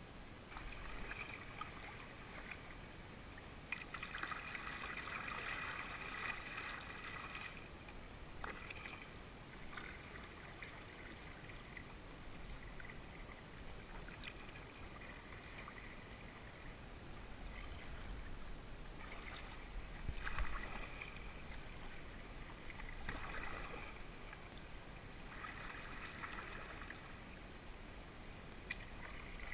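Kayak paddling: water splashing and swishing off the paddle blades in spells every few seconds, faint.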